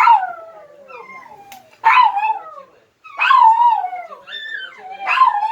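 A dog howling in a series of about five howls, each falling in pitch, with short breaks between them.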